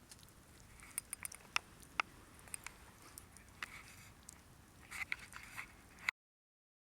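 Wood campfire crackling, with irregular snaps and pops from the burning wood and a quick cluster of pops about five seconds in. The sound cuts off suddenly about six seconds in.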